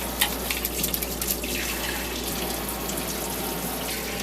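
Water running steadily from a tap, with a few sharp splashes and clicks in the first second or so as a pet bird is bathed under the stream.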